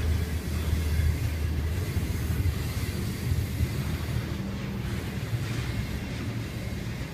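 Slow-moving freight train of double-stack intermodal well cars rolling past: a steady low rumble of steel wheels on the rails.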